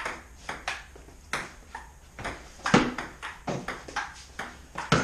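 Table tennis rally: the ping-pong ball clicking off paddles and table about twice a second, with one harder hit a little before the middle.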